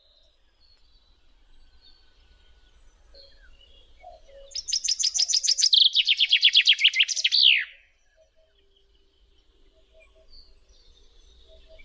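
A songbird singing: one loud, rapid trill of repeated high notes lasting about three seconds, in two phrases and ending on a falling note, with faint chirps from other birds before and after.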